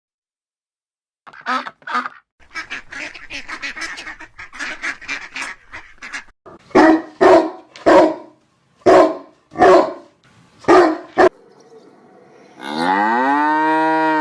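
A goose honking: a quick run of calls, then about six loud single honks spaced roughly half a second to a second apart. Near the end a cow moos, one long call that rises and falls in pitch.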